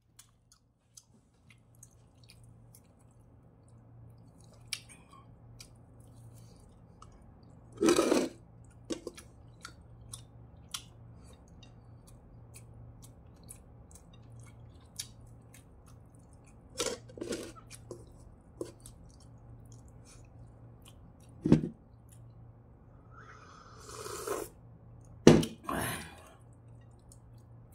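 Close-miked chewing of olive-oil-fried wagyu beef: many small wet mouth clicks, with several louder bites or crunches scattered through. A steady low hum runs underneath.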